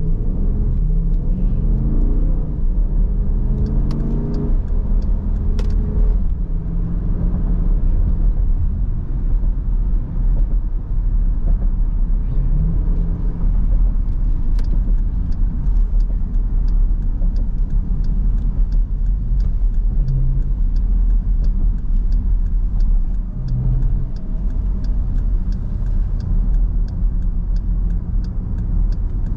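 A car's V8 engine revving up as the car pulls away, then a steady low rumble while driving in slow traffic. A regular light clicking, about two a second, runs through the second half.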